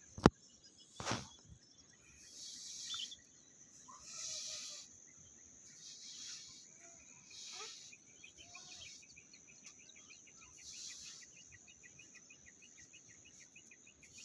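Faint outdoor ambience: a sharp click near the start, then a string of short hissing, scraping bursts, with small bird chirps and a faint rapid chirring in the second half.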